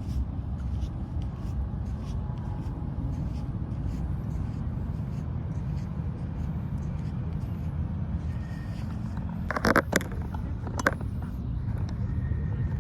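Steady low outdoor rumble of background noise, with a brief cluster of sharp knocks or snaps near the end and one more shortly after.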